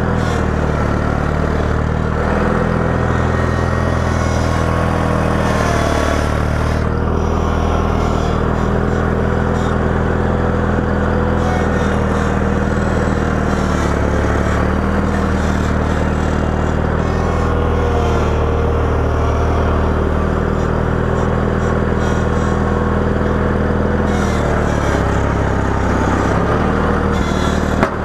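The engine of a small snow-plowing tractor running steadily under load, its pitch shifting a little up and down as it works.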